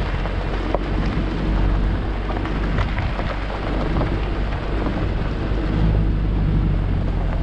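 A vehicle engine running steadily under a heavy, even rumble, its pitch shifting about six seconds in.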